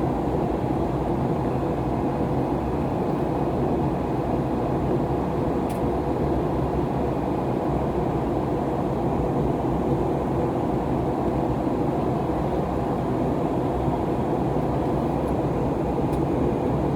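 Steady cabin noise of an Airbus A321neo heard from a seat inside the cabin: a low, even rush of its Pratt & Whitney PW1100G engines and airflow, with no change in level.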